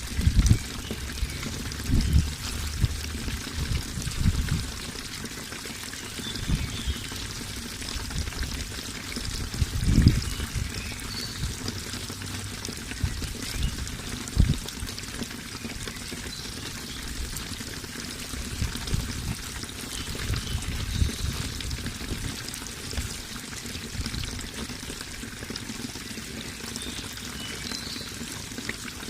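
Running water pouring and trickling steadily, with scattered brief low thumps, the strongest about ten seconds in.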